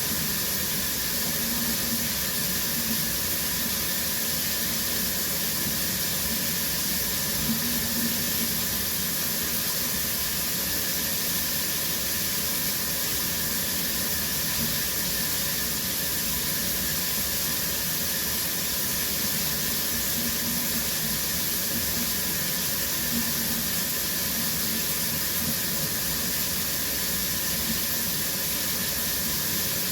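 Shower running steadily: a spray of water hissing as it falls.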